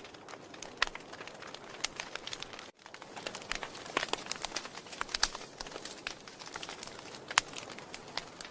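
Wood fire burning in a fireplace: irregular sharp crackles and pops over a steady hiss, with a brief sudden drop-out a little under three seconds in.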